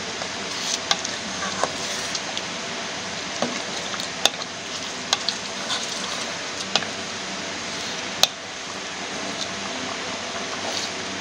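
Chicken korma sizzling in hot oil in a pot while a wooden spatula stirs it, the spices being roasted (bhuna) into the gravy. Several sharp taps of the spatula against the pot come through the steady sizzle.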